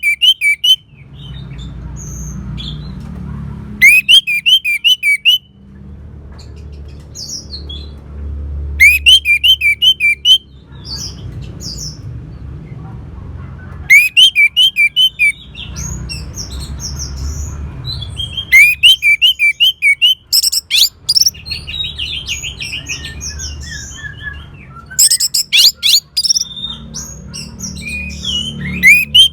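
Orange-headed thrush singing: loud phrases of quick rising notes, each about a second long, repeated every four to five seconds, with softer twittering in between and a low hum underneath.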